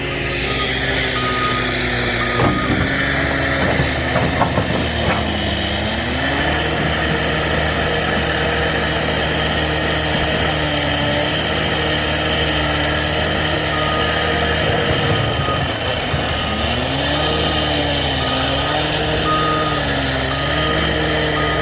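Cat 259 skid steer's diesel engine working under load, its pitch sagging and recovering as it digs and pushes. A backup alarm beeps at the start and again through the second half while the machine reverses.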